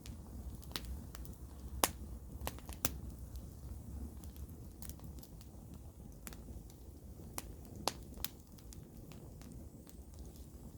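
Wood campfire crackling: irregular sharp pops and snaps, a few louder than the rest, over a steady low rumble.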